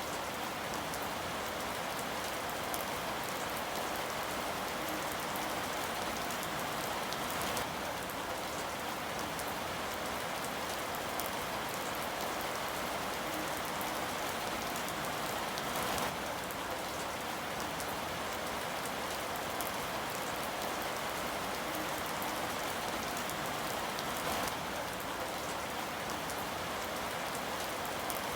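Steady rain falling, an even hiss that does not let up, with a slightly louder moment about every eight seconds.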